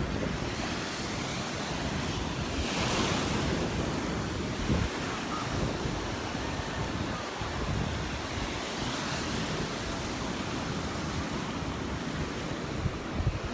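Gulf of Mexico surf breaking and washing up the beach, with wind buffeting the microphone; one louder wave washes in about three seconds in.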